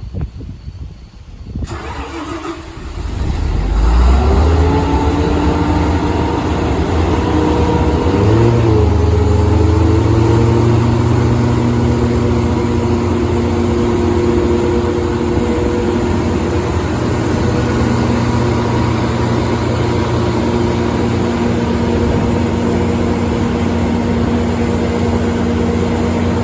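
Iveco diesel engine of a 250 kW Generac generator being cranked by its starter, catching about two seconds in and running up to speed. Its pitch wobbles briefly as it settles at about eight seconds, then it runs steadily at governed speed with a high, steady whine.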